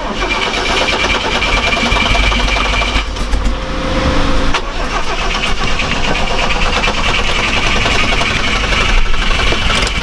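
Off-road vehicle engine being cranked on its starter with a high starter whine, in two tries: the first for about three seconds, the second from about five seconds in and running on.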